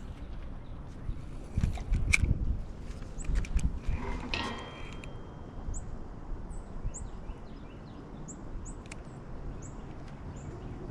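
A small bird chirping: a run of about eight short, very high notes, each falling in pitch, over the second half. Before that, low rumbling and a few sharp knocks, like wind and handling of gear.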